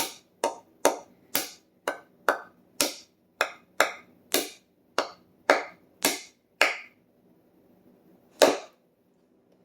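A ball peen hammer driving a nail into wood: a steady run of about fourteen sharp strikes, roughly two a second, then a pause and one final hard blow near the end.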